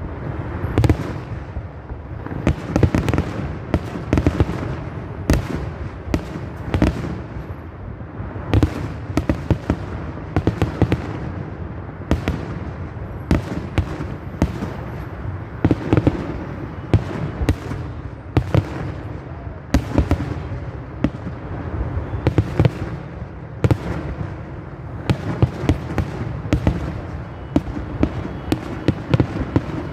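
Fireworks salute: a dense barrage of aerial shell bursts, sharp bangs several times a second over a continuous low rumble.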